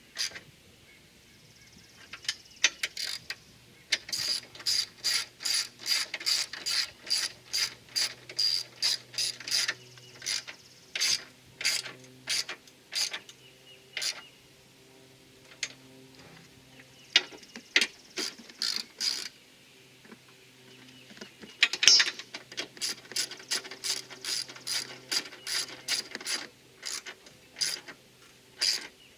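Ratchet wrench clicking in quick runs with short pauses between them, as strut tower brace mounting nuts are snugged down onto the strut towers.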